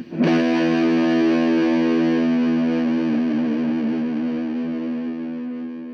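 Intro music: a single distorted electric guitar chord struck once and left to ring, wavering slightly in pitch midway and slowly fading.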